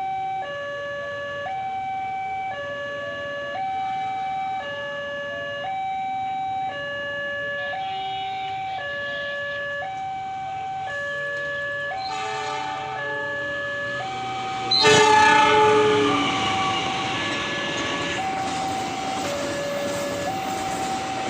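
A railway level-crossing warning alarm sounds steadily, alternating between two tones about once a second. An approaching train sounds its horn, with short hoots and then a loud blast about three-quarters of the way in. The noise of the passing train then builds up under the alarm.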